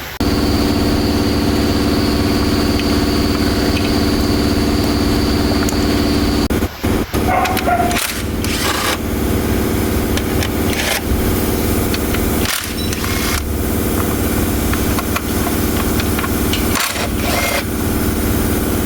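Hyundai Santa Fe diesel engine running at a steady idle, coming in suddenly at the outset. A thin high whine sits over it for the first six seconds or so, and a few sharp knocks come through later.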